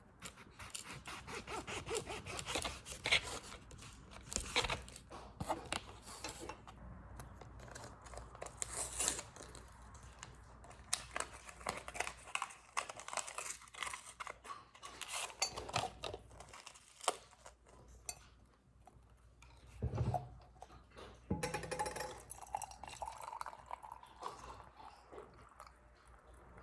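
Close handling sounds: rustling with many light clicks and taps, a few louder knocks among them.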